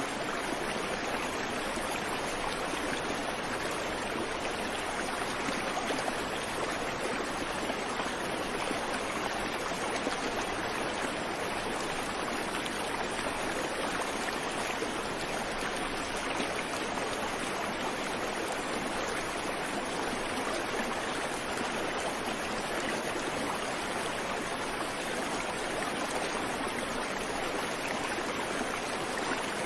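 Creek water flowing over rocks, a steady rushing and babbling with no birdsong.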